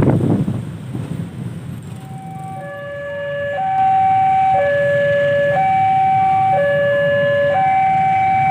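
Railway level-crossing warning alarm sounding a two-tone hi-lo pattern, about one second on each tone, starting about two seconds in and growing louder before holding steady. A loud rumbling noise fades away in the first second.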